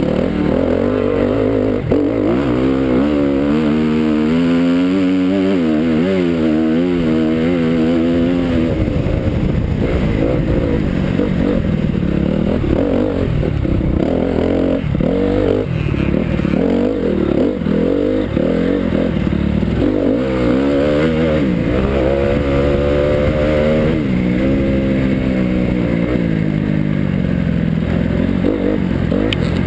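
Motocross dirt bike engine revving hard, its pitch climbing and dropping again and again as the throttle opens and closes.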